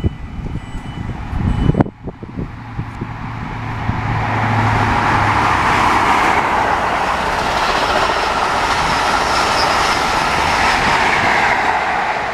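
Class 43 HST diesel express passing through the station at speed, its rushing noise building over the first few seconds and then holding loud and steady as the train goes by. A few low thumps come at first.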